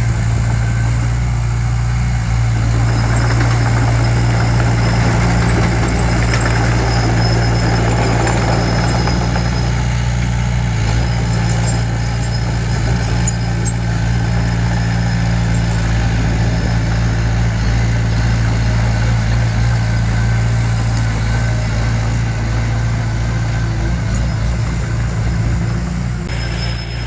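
Diesel engine of heavy earthmoving equipment running steadily at an even speed, a strong low drone that holds its pitch throughout, with a brief dip in level near the end.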